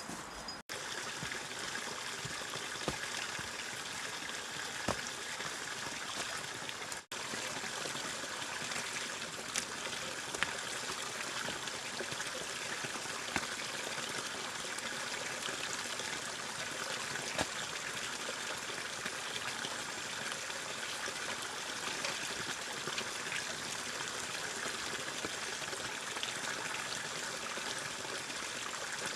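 Steady rushing of flowing water, like a stream, with scattered faint ticks. It breaks off for an instant twice, about a second in and about seven seconds in.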